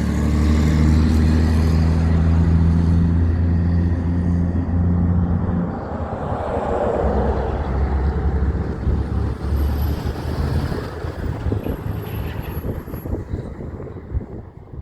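A big truck's engine running loud with a steady low drone, then fading away over the second half as the truck moves off, leaving a rougher rumble that dies down.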